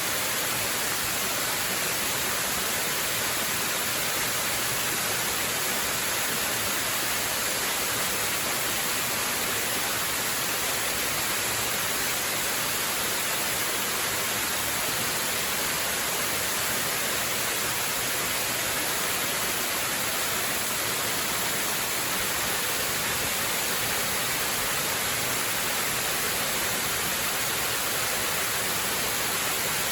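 Waterfall rushing steadily: a constant, even hiss of falling water, strongest in the upper frequencies, with no change in level.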